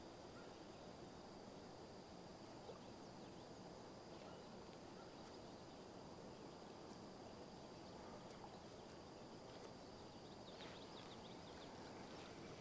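Quiet lakeside ambience: a few faint bird chirps over a steady high-pitched hum and low background hiss.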